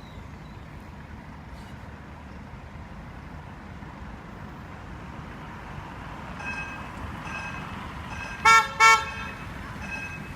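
Two short blasts of a tram horn about two-thirds of the way through, over a steady background rumble. From a little past halfway, a level-crossing warning signal beeps in two tones at an even pace, about once every three-quarters of a second.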